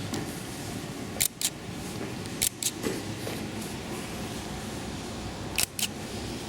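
Sharp clicks in quick pairs, three times, over a steady background hum.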